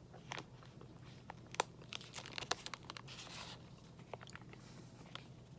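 Faint crinkling and crackling of a granola bar's wrapper being handled, with scattered small clicks and a brief rustle about three seconds in.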